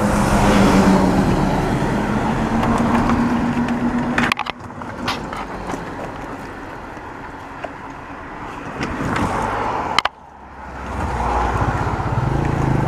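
Motor vehicle engine running with road noise, broken by two abrupt cuts; near the end an engine rises in pitch as it speeds up.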